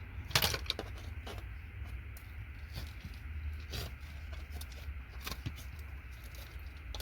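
Scattered sharp clicks and cracks as ferrite parts are snapped and pried off circuit-board connectors, the loudest about half a second in, over a steady low hum.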